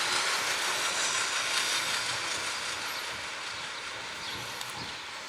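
Passenger train hauled by the Ol49-69 steam locomotive rolling past, a steady rushing noise that fades gradually as it moves away.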